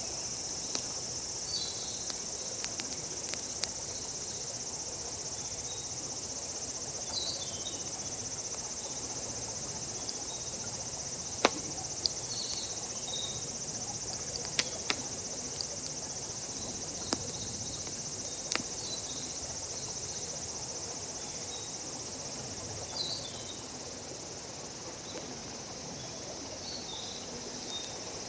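Wood campfire crackling with scattered sharp pops, over a steady high-pitched drone of insects; a few short chirps come and go.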